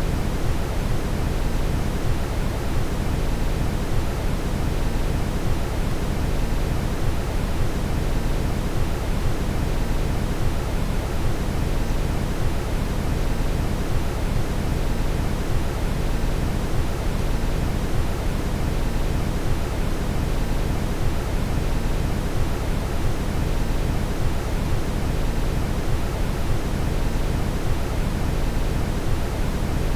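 Steady brown noise: an even, unbroken rushing hiss, heaviest in the low end.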